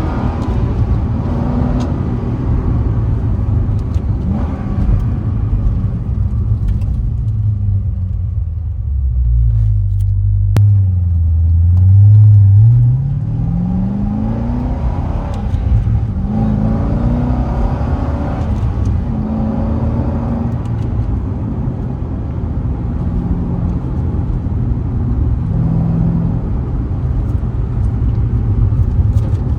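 2007 Chevrolet Corvette Z06's 7.0-litre LS7 V8 running with the car under way, a steady low rumble. About ten seconds in the engine note drops, then climbs in a rising pull as the car accelerates, the loudest part. After that it settles back to a steady cruise.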